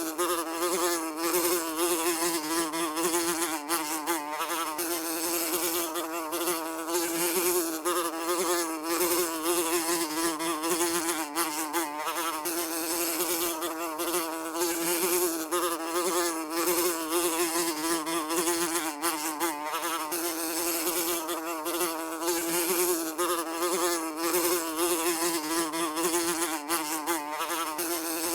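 A fly buzzing without a break, a steady drone whose pitch wavers slightly up and down.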